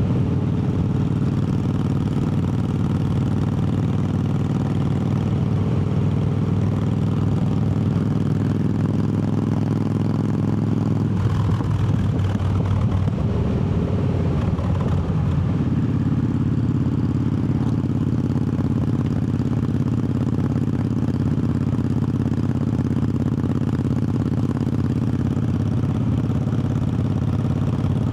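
Triumph Bobber's 1200 cc parallel-twin engine running steadily on the road. Its note breaks up and shifts a little under halfway through, then settles at a new steady pitch.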